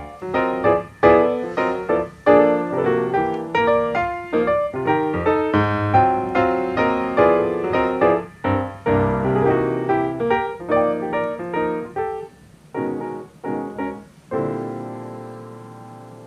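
Background piano music, a quick run of notes that thins to a few separate chords and ends on one held chord fading out.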